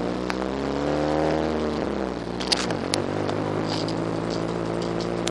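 Car engine heard from inside the cabin, pulling away with its pitch rising for about a second and a half. The pitch then falls steeply about two and a half seconds in and the engine settles to a steady run. Two sharp ticks come around the middle.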